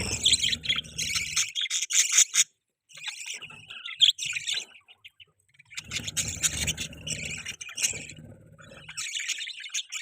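Budgerigars chirping and chattering in dense bursts, broken by two short pauses.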